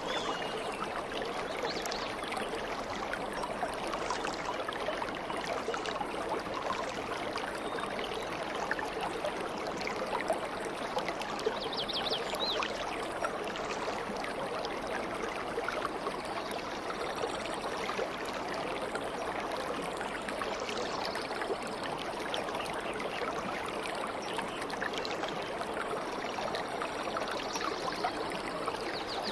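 Stream water babbling steadily over stones, with a few faint bird chirps now and then.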